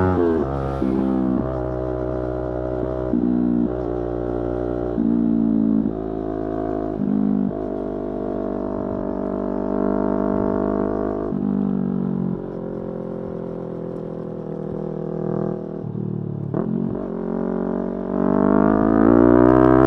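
Yamaha R3 motorcycle's 321 cc parallel-twin engine on the move: four short jumps in revs in the first several seconds, as on throttle-blipped downshifts, then lower, steadier running. Near the end the revs climb steadily as the bike accelerates.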